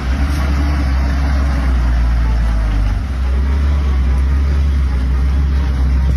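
Heavy truck engine running with a steady low drone under broad engine and road noise.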